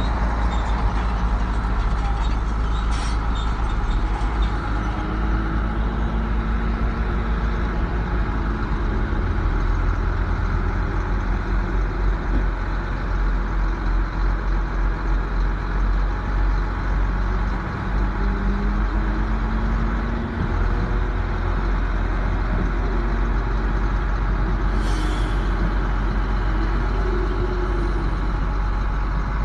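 Heavy diesel earthmoving machinery running hard under load, with a deep steady rumble and an engine note that rises and falls. A brief hiss comes about 25 seconds in.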